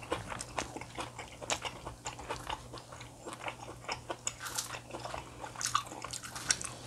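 A person chewing food, with many small irregular smacks and clicks, over a faint low steady hum.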